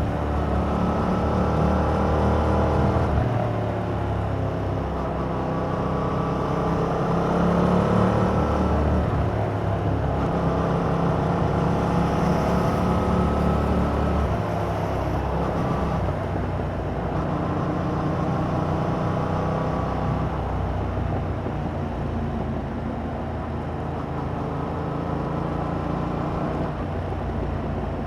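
2021 Yamaha MT-07's 689 cc parallel-twin engine through its stock exhaust, riding under load: the pitch climbs, drops back at a gear change, and climbs again several times.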